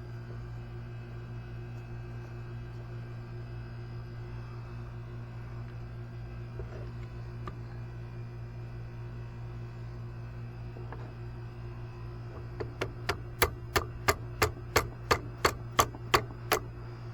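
Steady low hum, then starting about three-quarters of the way in, about a dozen sharp hammer strikes at roughly three a second, driving a stubborn part into place on an ATV.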